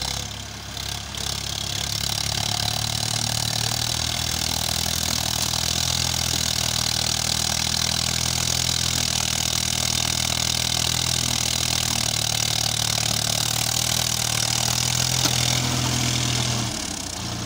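Swaraj 963 FE tractor's diesel engine running steadily while working in a field, with a brief change in the engine note near the end.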